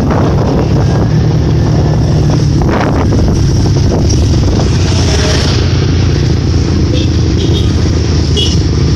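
Vehicle engine idling steadily as it is warmed up, a constant low running sound with no revving.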